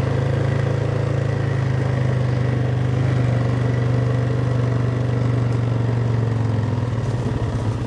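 Four-wheeler engine running steadily with a low, even hum, its note changing near the end.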